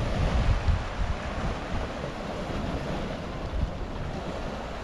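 Wind gusting over the microphone and water washing past the hull of a sailboat under sail in a fresh breeze.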